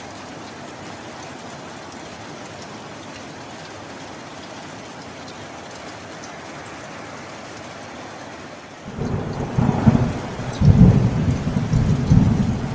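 Steady rain. About nine seconds in, a loud thunder rumble breaks in suddenly and keeps rolling, with several sharper peaks within it.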